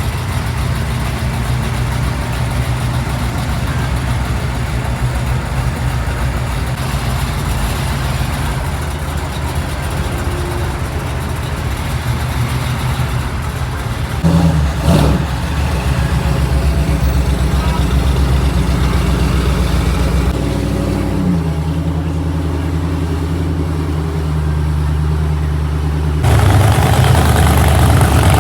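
Classic car engines idling low and steady, with a short rev about halfway through. The engine sound shifts abruptly twice near the end.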